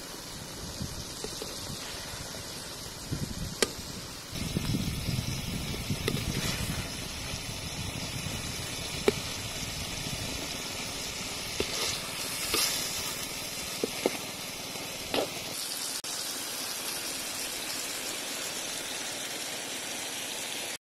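Fried fish pieces sizzling in sauce in a wok while a metal spoon stirs and turns them, with scraping and a few sharp clicks of the spoon against the wok.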